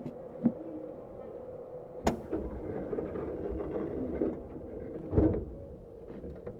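Interior running sound of a Tokyu 7700 series electric train's motor car on the move: a steady hum, with a sharp click about two seconds in and a heavier knock about five seconds in.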